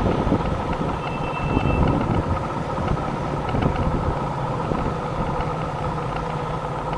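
A car driving, its engine and tyre noise recorded steadily by a dashboard camera.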